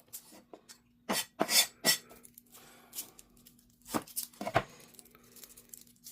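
A cleaver or heavy knife working garlic cloves on a chopping board: a few sharp knocks and taps as the cloves are slapped and trimmed, three close together and then two more a couple of seconds later.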